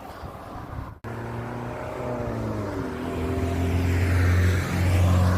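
Motorway traffic passing close by: a heavy vehicle's engine drone drops in pitch and grows louder as it goes by. The audio cuts out briefly about a second in.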